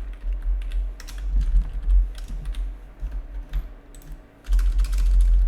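Typing on a computer keyboard: irregular key clicks, with a low rumble underneath.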